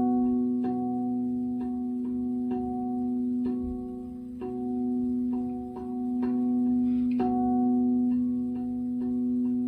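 Singing bowls ringing: one low tone held steady throughout, with soft strikes about twice a second, each adding a ringing higher note that fades before the next.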